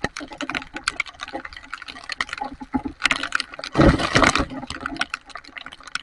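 Heavy rain, with many sharp drop ticks striking close to the microphone. A louder rush of water swells for about a second and a half midway.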